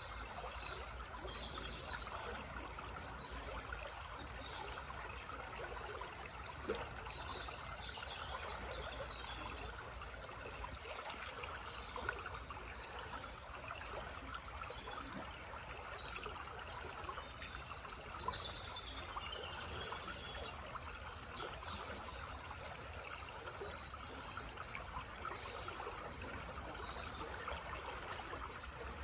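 Small forest stream babbling and trickling steadily, with songbirds chirping now and then above it.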